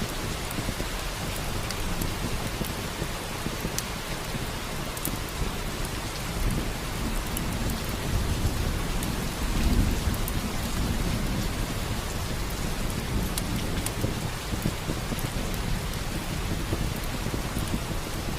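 Steady heavy rain, with a low rumble of thunder swelling about halfway through. Scattered sharp crackles from a log fire sit over the rain.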